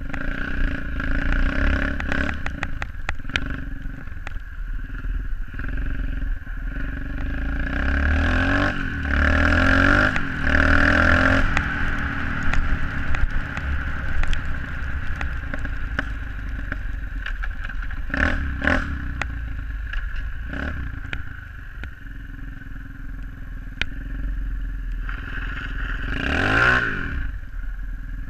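SSR 125cc pit bike's single-cylinder four-stroke engine running under riding, with clattery noise mixed in. The engine revs up about a third of the way in and rises and falls in pitch once more near the end.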